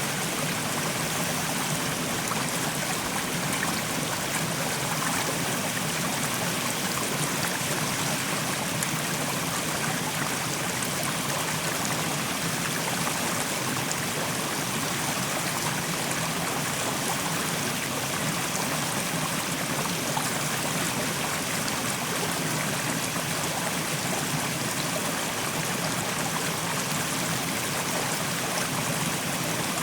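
Mountain stream running over rocks: a steady, even rush of water with no breaks or changes.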